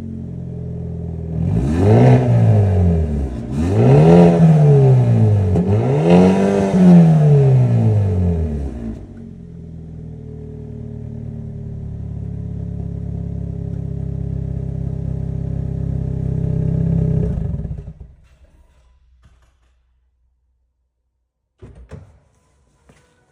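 Hyundai Elantra N's turbocharged 2.0-litre four-cylinder through its stock exhaust in N mode, blipped three times in quick revs. It then settles to a steady idle and is switched off about eighteen seconds in, followed by a few faint clicks.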